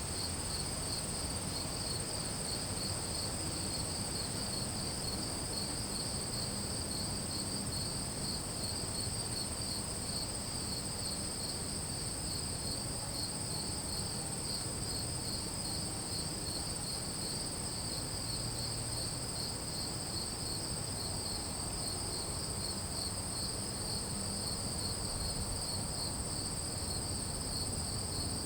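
Chorus of crickets and other singing insects: one continuous high trill over a lower, rapidly pulsing trill, both steady, with a low, even background rumble underneath.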